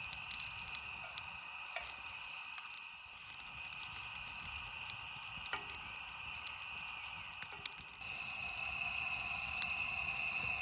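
Food sizzling in a frying pan: a steady hiss with scattered small crackles and pops. The sound gets louder about three seconds in and again near the end.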